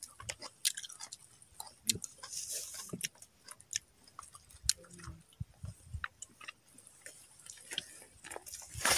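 A person chewing and crunching food close to the microphone, with many small irregular clicks and crunches from the mouth.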